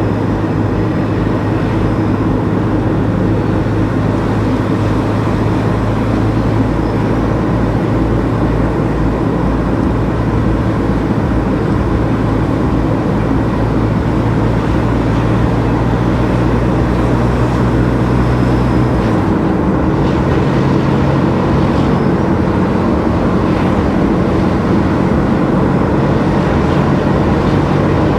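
Car engine and tyre road noise while driving, a steady engine hum over a rushing haze. About two-thirds of the way through, the engine note steps up in pitch.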